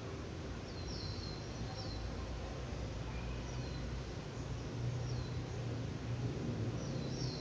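Short high chirps, each sliding down in pitch, come irregularly every second or two, like a small bird calling, over a steady low hum.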